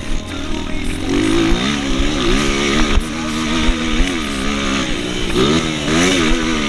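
Motocross motorcycle engine revving, its pitch rising and falling in repeated blips of the throttle.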